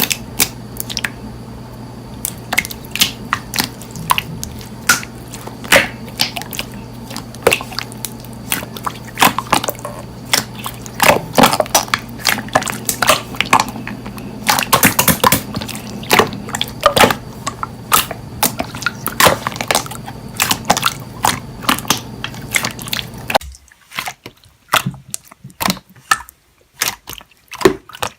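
Slime being pressed and squeezed by hand, giving irregular sharp clicking pops and squelches, one or two a second. A steady low hum underneath stops about five seconds before the end.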